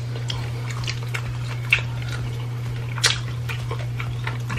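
Chewing and crunching of fried food, with scattered small mouth clicks and two louder crunches, over a steady low hum.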